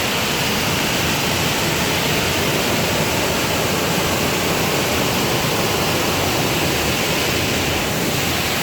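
Waterfall, water pouring and crashing into its pool in a loud, steady rush.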